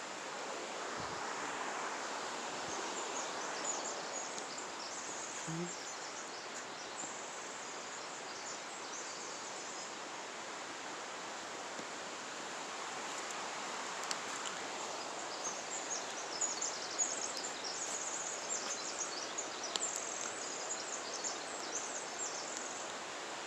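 Steady outdoor forest background hiss, with scattered faint high crackling and rustling about a second in and again through the second half.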